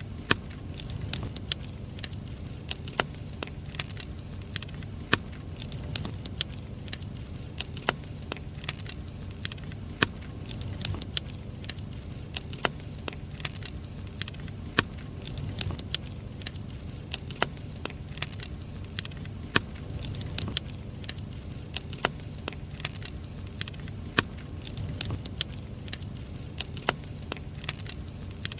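Burning firewood crackling, with irregular sharp pops and snaps several times a second over a low steady rumble.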